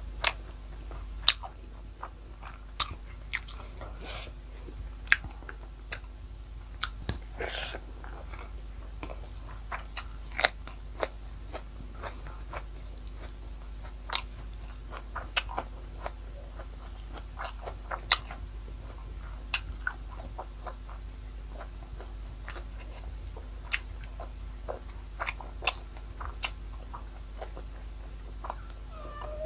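A person chewing fried pork belly and rice, with sharp wet mouth clicks and smacks at irregular intervals.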